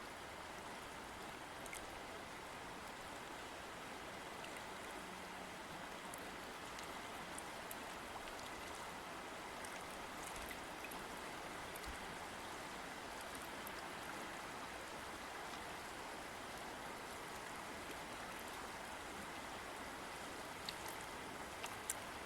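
River water flowing steadily in a continuous rushing hiss, with scattered small splashes and clicks, a few sharper ones near the end.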